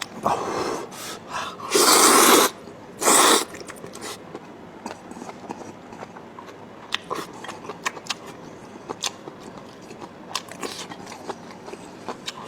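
A person eating up close to the microphone: three loud breathy bursts in the first few seconds, then chewing with many small wet clicks.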